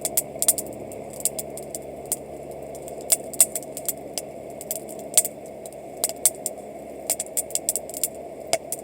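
Wood campfire crackling: irregular sharp pops and snaps, sometimes several in quick succession, over a steady background rush.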